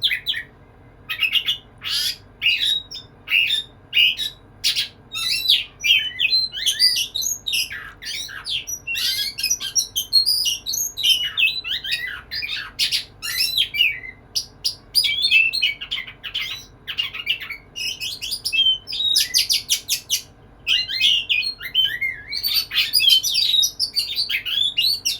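Male oriental magpie-robin (kacer) in full, vigorous song, courting a female: a fast, unbroken run of varied high whistles and trills mixed with short rasping notes, with only brief pauses between phrases.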